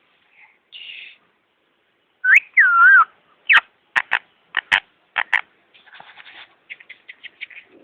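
A parrot whistling: a short rising whistle, then a loud wavering falling whistle about two and a half seconds in, followed by a string of short sharp chirps and a fast run of quieter clicking chatter near the end.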